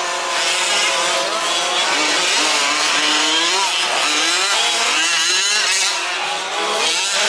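Several 1/5th-scale petrol RC off-road trucks racing, their small two-stroke engines revving up and down and overlapping, each rising and falling in pitch as the throttle opens and closes.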